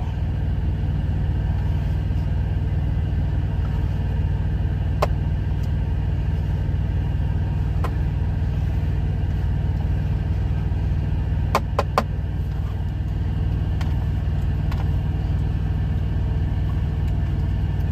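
Semi-truck's diesel engine idling steadily, a constant low drone heard from inside the cab. A few light clicks sound over it, three in quick succession about two-thirds of the way through.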